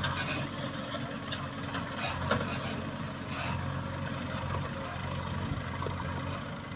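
Diesel engine of a heavy machine running steadily at a low, even speed.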